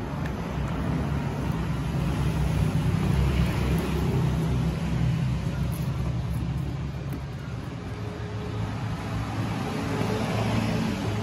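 A motor vehicle engine running steadily, a low hum that swells a little about three seconds in and again near the end.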